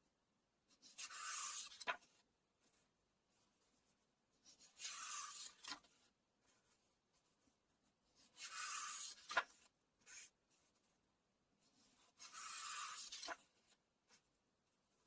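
Pages of a book being turned one at a time, four turns in all. Each is a papery swish of about a second that ends in a sharp tap.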